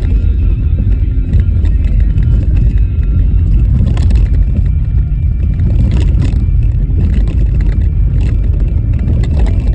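Car driving on a rough, bumpy snow-covered road in a blizzard: a loud, steady low rumble of tyres and wind, with a few sharp knocks as the car jolts over the bumps.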